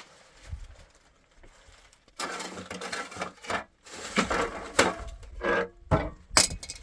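Wood being worked by hand: a run of rasping, scraping strokes on the door's boards, about two a second, then a couple of sharp knocks near the end.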